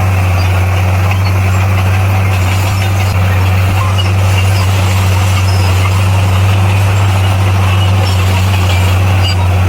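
Komatsu bulldozer's diesel engine running steadily under work, a constant low drone.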